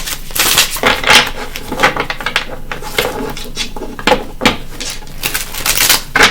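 Tarot cards being shuffled by hand: a rapid, irregular run of card flicks and slaps.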